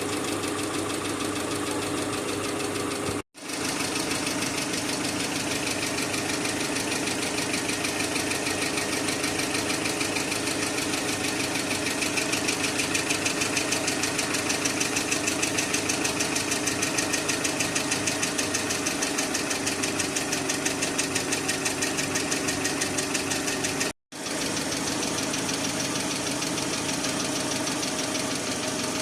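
Petrol GDI engine idling with a fast, even ticking from its hydraulic valve lifters (lash adjusters), an oil additive just added to try to cure it. Twice the sound cuts out for an instant.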